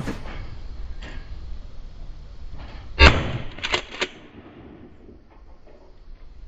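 A Remington 870 Express 12-gauge pump shotgun fires one shot about three seconds in, followed within a second by a few quicker, quieter clacks, typical of the pump action being worked. A sharp snap sounds right at the start.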